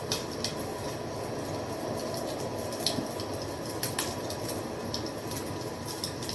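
Wood fire burning with a steady low rush and irregular sharp crackles and pops; the sharpest pops come about three and four seconds in.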